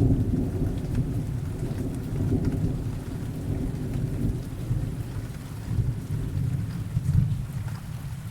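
Thunder rumbling low and rolling, dying away over several seconds with a brief swell about seven seconds in, over steady rain.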